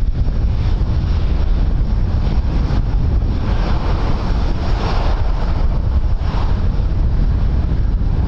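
Strong wind buffeting the microphone, a steady deep rumble with a rushing hiss that swells for a few seconds in the middle.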